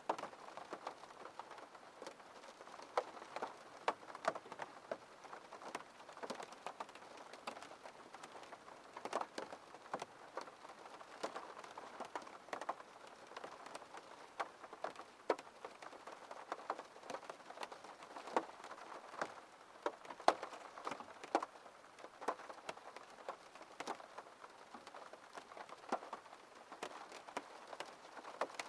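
Rain falling on a window pane: a steady hiss with many separate drops tapping at irregular intervals.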